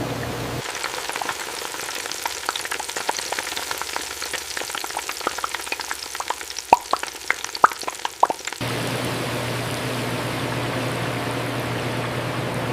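Chicken frying in hot oil: a dense crackle with scattered sharp pops, loudest shortly before it stops. About eight and a half seconds in, it gives way abruptly to a steady rushing noise with a low hum.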